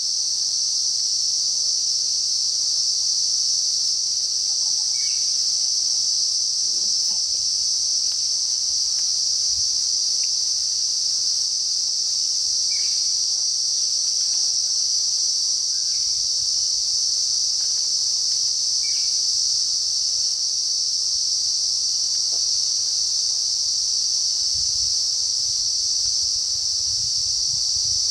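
Cicadas droning: a dense, steady, high-pitched hiss with no break, and a few faint short chirps over it.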